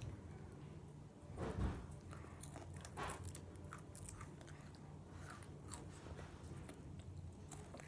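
A person chewing and crunching a crisp snack, with scattered small crunches and a louder bite about a second and a half in.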